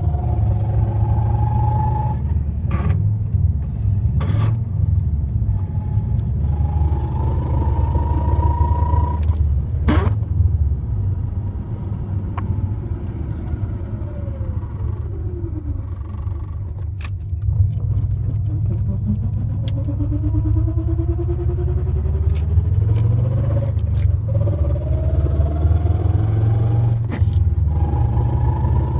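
Subaru WRX running under a heavy low rumble, with a whine from the drivetrain. The whine climbs slowly in pitch, drops away steeply about halfway through, then climbs again, with scattered sharp clicks. This is the odd transmission sound of a gearbox whose 4th and 5th gears are not engaging.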